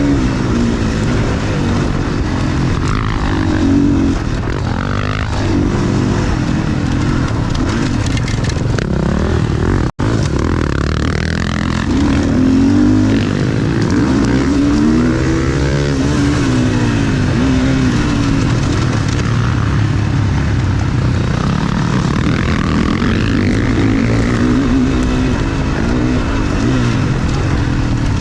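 Motocross bike engine heard onboard while racing, revving up and dropping back again and again as the rider accelerates and rolls off through the track. The sound cuts out for an instant about ten seconds in.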